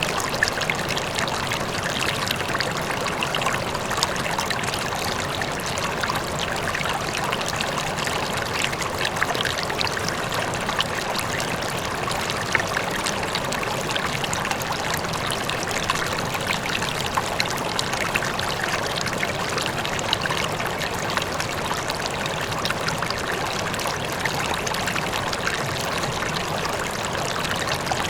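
River water flowing steadily, a continuous rushing and babbling with many small splashes.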